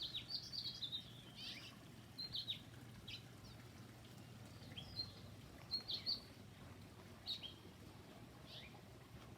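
Songbirds chirping: short high chirps and down-slurred notes, several calls in the first second and again around five to six seconds in, over a faint steady low hum.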